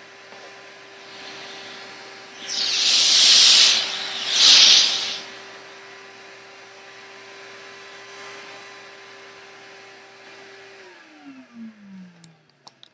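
Hoover Spirit canister vacuum (3.1 peak horsepower, 7.8 amp) running with a steady motor whine, with two loud rushes of air from the hose about three and four and a half seconds in. Near the end it is switched off and the motor winds down, its pitch falling.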